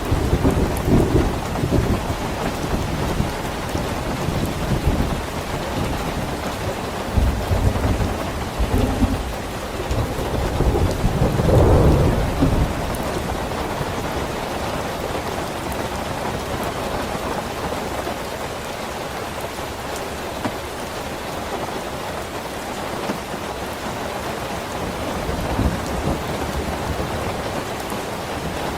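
Steady rain with rolling thunder: several low rumbles in the first half, the loudest a little under halfway through, then steady rain alone.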